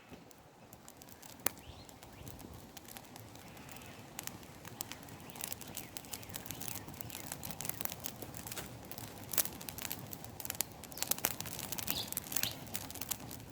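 Campfire crackling, with sharp irregular pops over a low hiss; the pops come more often from about halfway through.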